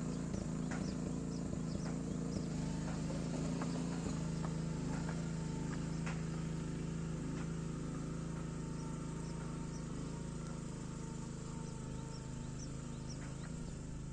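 A steady low buzzing hum, with scattered short, high chirps over it.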